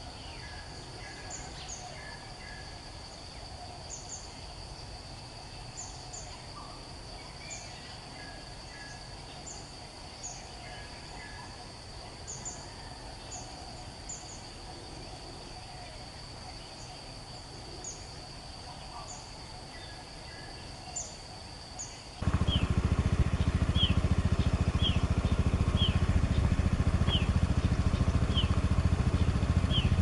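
Wild birds giving short, sharp high chirps over a steady high whine. About two-thirds of the way through, this gives way abruptly to a much louder, steady low engine rumble, with a bird chirping about once a second over it.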